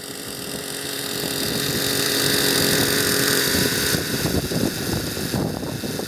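Engine-powered Hirobo Sceadu RC helicopter running, its engine and rotors rising in loudness about a second in and loudest between two and four seconds, then easing off.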